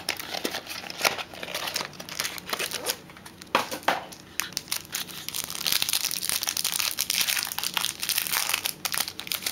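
The wrapper of a trading-card pack being torn open and crinkled by hand: an irregular run of crackling, thickest in the second half.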